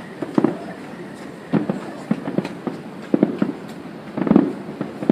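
Fireworks bursting in the sky: a run of irregular sharp bangs and crackles, the loudest about four seconds in.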